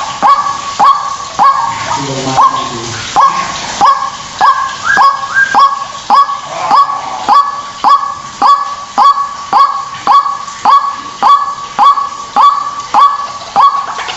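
White-breasted waterhen (ruak-ruak) calling: a loud honking note repeated nearly twice a second, each one rising sharply at its start. The run breaks briefly about two seconds in, then goes on evenly.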